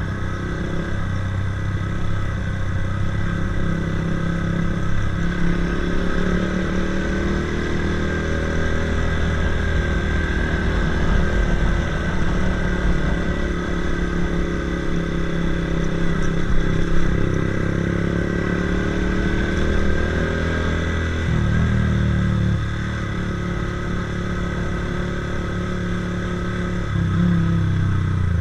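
Honda CBF 125's single-cylinder four-stroke engine running through a DanMoto GP aftermarket exhaust. Its pitch rises and falls several times, with sudden jumps in engine speed about three-quarters of the way in and again near the end.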